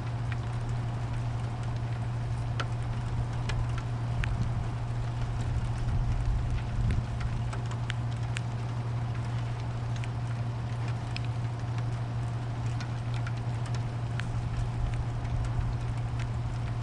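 Rain falling, with scattered sharp drips and ticks over a steady low hum.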